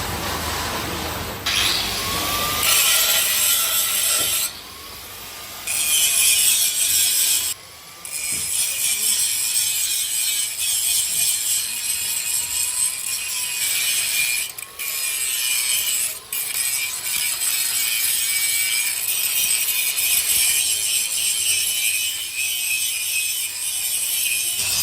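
Harsh, hissing scrape of a tool grinding or scraping metal, in long stretches broken by several brief pauses.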